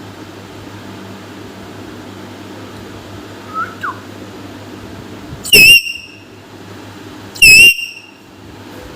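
Pet parrot giving two loud, shrill calls about two seconds apart, each short, after a faint chirp a little earlier. A steady fan-like hum runs underneath.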